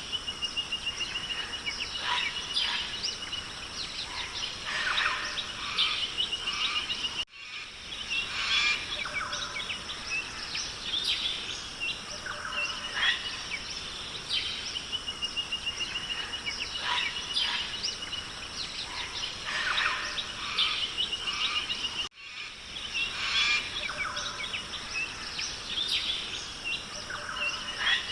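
Rainforest ambience: many birds calling and chirping, including a rapid trill, over a steady hiss. The sound cuts out for a moment twice, about seven and twenty-two seconds in, where a looped recording restarts.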